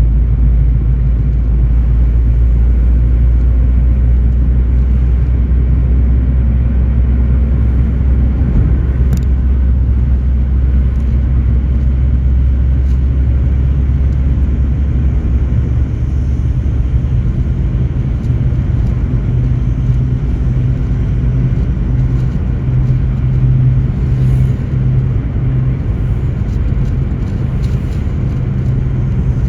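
Car driving: a steady low rumble of engine and road noise. Its deepest drone fades about halfway through and a somewhat higher hum takes over.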